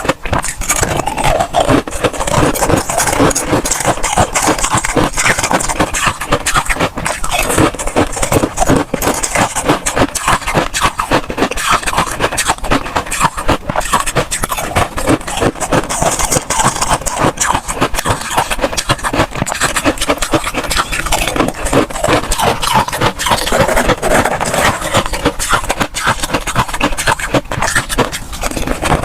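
Freezer frost crunching and scraping: a dense, unbroken run of crackles with no pause.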